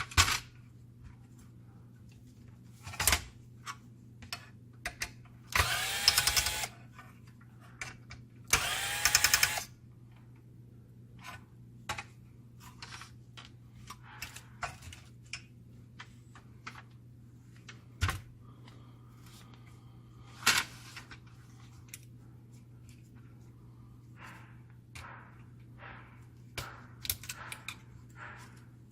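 Parts of a laser printer fuser unit being handled during disassembly: scattered clicks and knocks, with two roughly one-second whirring bursts of a small power screwdriver about six and nine seconds in. A steady low hum runs underneath.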